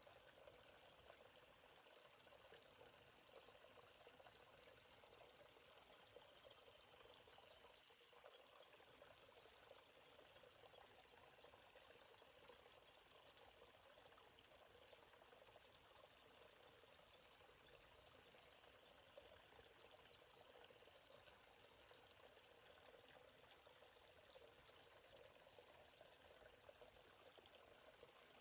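Steady high-pitched chorus of insects, with a faint trickle of stream water beneath it.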